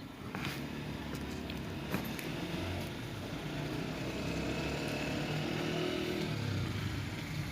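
Steady mechanical rumble with a low hum that wavers in pitch, like an engine running, with a few faint clicks.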